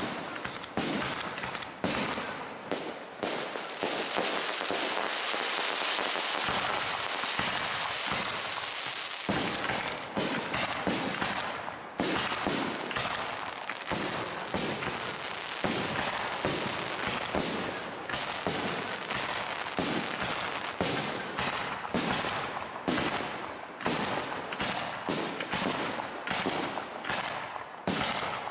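Professional fireworks display with large aerial shells bursting in rapid succession: many sharp bangs. From about three to nine seconds in, the bursts merge into a dense, unbroken din.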